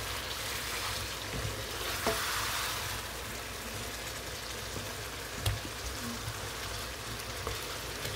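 Onion-and-tomato masala sizzling in oil in a pan while a wooden spatula stirs it. A few short knocks of the spatula against the pan come through the sizzle.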